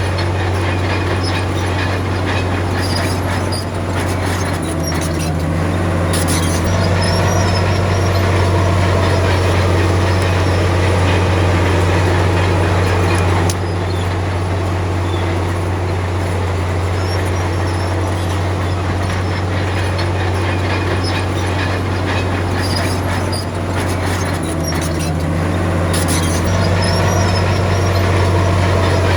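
Komatsu D53P bulldozer's diesel engine running steadily with a deep hum. Twice the engine note dips and comes back, with metallic clanking and squeals from the tracks.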